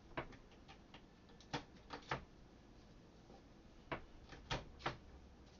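Irregular sharp clicks and knocks, about seven, from hard kitchen items being handled and set down: one near the start, three close together around the second and a half to two seconds in, and three more around four to five seconds in.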